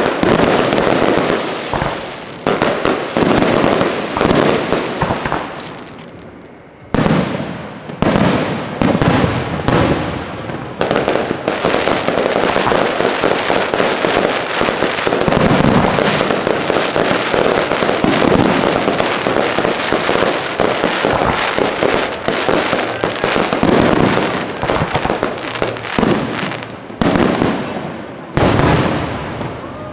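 Aerial firework shells bursting one after another, many bangs close together with crackling between them. There is a short lull about six seconds in, and a fresh loud burst near the end.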